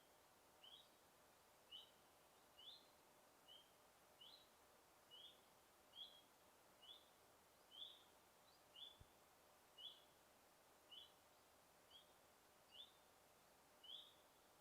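A bird repeating a short, high chirp about once a second, over faint forest background hiss.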